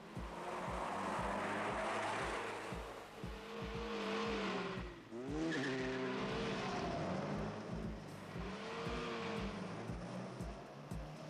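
Cars racing hard with engines revving and tyres skidding. The engine pitch rises and falls, with a brief drop and a quick rev-up about five seconds in.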